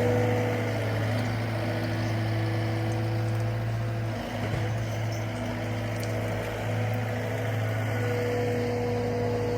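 Cat 299D2 skid steer's diesel engine running steadily under work, with a brief dip about four seconds in.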